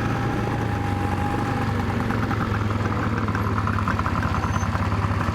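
Small dirt bike engine running steadily at low revs, with no revving up or down.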